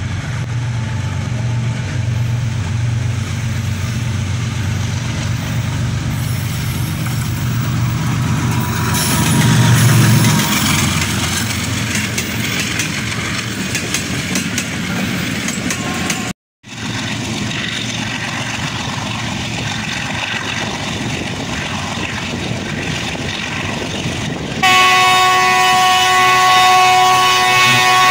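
Diesel locomotive engine throttling up with a steady low drone that swells about ten seconds in, followed after an abrupt cut by running train noise. A loud multi-tone locomotive horn sounds near the end.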